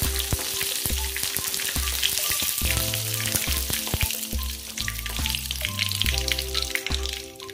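Tofu cubes frying in hot oil in a wok, a steady crackling sizzle, with their skins turning golden. Background music with a repeating bass line plays under it.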